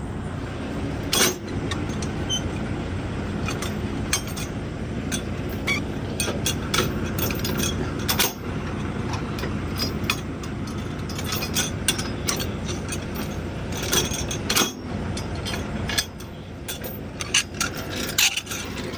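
Steady rumble of an idling semi truck, with scattered metallic clinks, knocks and scrapes from handling the coupling and lines between tractor and trailer.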